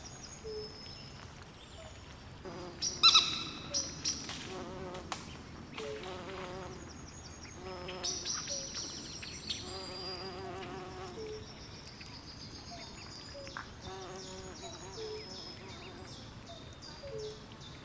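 Night swamp ambience: a layered chorus of chirping insects and calling frogs, with many short repeated chirps, lower piping notes and trills over a steady hiss, and one louder call about three seconds in.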